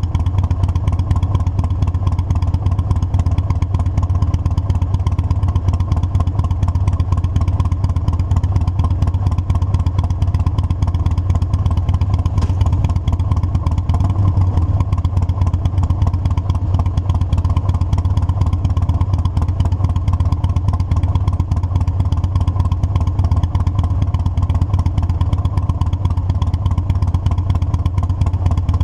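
Motorcycle engine running at a steady speed: a strong, even low engine note that neither rises nor falls.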